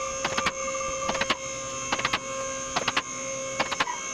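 A steady electrical hum, with short bursts of clicking repeating about every 0.8 seconds.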